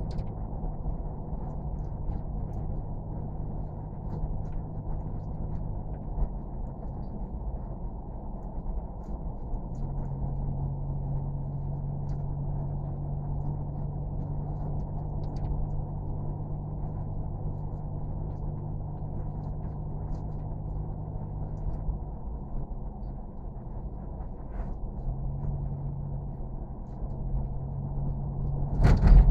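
A steady low mechanical drone, like a running engine heard from inside, with humming tones that step up or down in pitch a few times, at about 6, 10, 22 and 25 seconds in. A sharp knock near the end.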